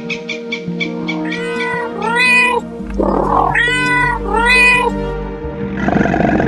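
Cat meowing four times, each call rising and falling in pitch, over background music.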